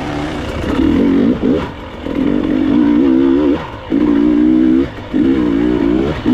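Enduro motorcycle engine revving in about five or six bursts as the throttle is opened and closed, its pitch rising and falling with each burst.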